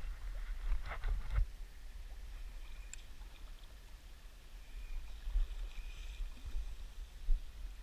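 Running river water with an uneven low rumble, and a few light clicks about a second in.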